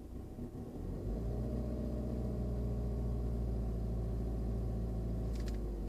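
Steady low buzz from inside the dashboard of a 2014 Ford Escape, heard in the cabin. It is made of several evenly spaced low tones, swells up about a second in and then holds steady. It is the unexplained buzzing fault the owner is trying to track down.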